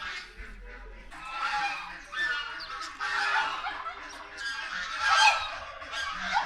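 Captive birds calling in a series of loud, harsh calls, about five in all, each under a second long. The loudest comes about five seconds in.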